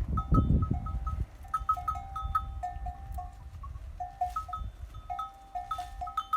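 Neck bells on grazing livestock clinking over and over in an irregular jangle, each strike a short ringing ping at one of two pitches. A low rumble sits under the bells for the first second or so.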